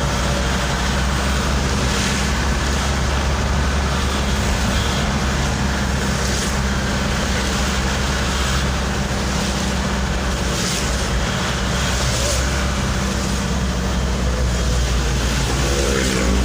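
Steady road noise from a moving vehicle: a constant low engine hum under an even hiss of tyres and passing traffic.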